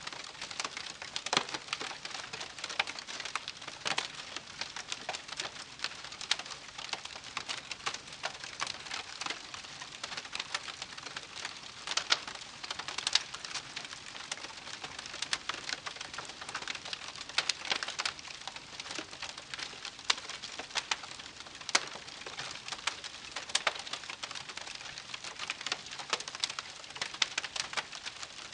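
Wood campfire crackling: a steady hiss with dense, irregular snaps and pops, a few of them sharper and louder than the rest.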